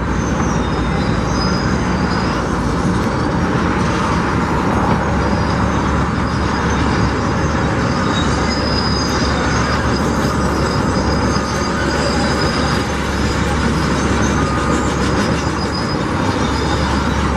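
Steady, loud mechanical rumble with faint thin high-pitched squealing tones over it.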